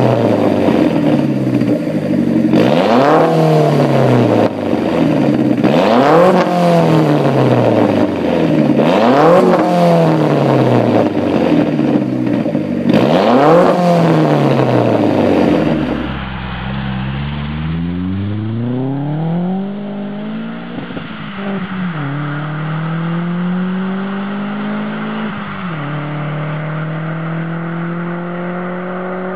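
BMW 335i E92's turbocharged 3.0-litre straight-six being revved repeatedly, each rev rising quickly and falling back slowly, about every three seconds. About halfway through the sound changes to slower rises and falls in engine pitch, ending in a steady climb.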